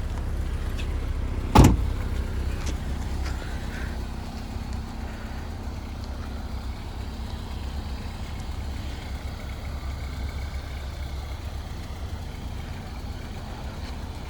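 Honda S2000's 2.2-litre four-cylinder engine idling steadily, with one sharp thud about a second and a half in.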